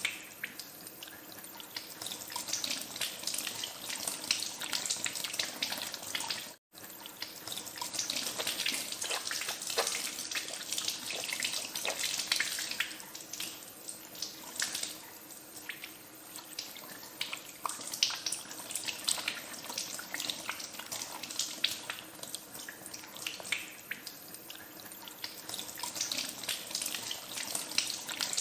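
Tap water running into a sink with hands being washed under the stream, splashing irregularly. The sound drops out for an instant about seven seconds in.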